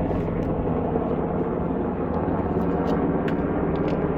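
Helicopter flying slowly overhead, a steady drone, with a few light clicks near the end.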